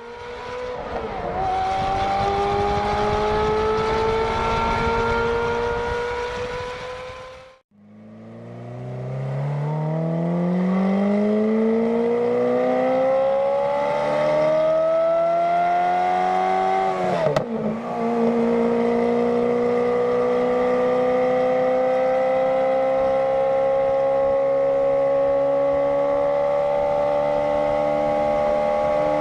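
Ferrari F430's flat-plane V8 howling through a Kreissieg valvetronic aftermarket exhaust, its note climbing slowly in pitch. The sound cuts out briefly about a third of the way in, then rises again. A sudden dip in pitch comes a little past halfway, after which it holds a high, steady, slowly rising howl.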